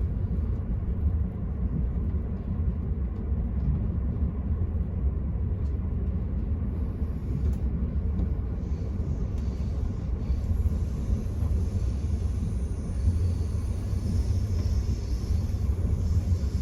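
Enterprise passenger train running along the line, heard from inside the carriage as a steady low rumble of wheels on track, with a faint high-pitched hiss coming in about halfway through.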